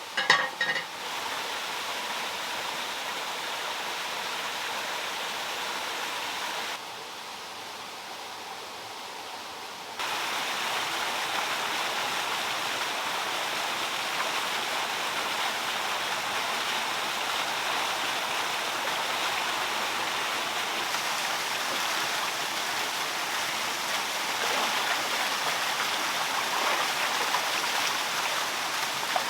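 Water running steadily over a small handmade stone waterfall, an even rushing hiss. It drops quieter for a few seconds about a third of the way in, then comes back louder and holds. A few brief sharp knocks come right at the start.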